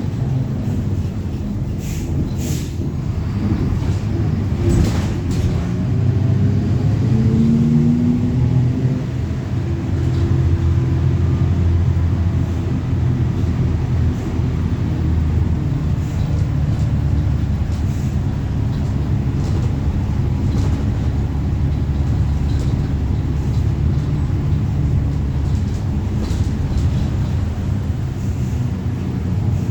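Interior of a Mercedes-Benz OF-1721 city bus on the move. Its diesel engine runs steadily, and its pitch rises between about four and nine seconds in as it accelerates. A few sharp rattles and knocks come near the start.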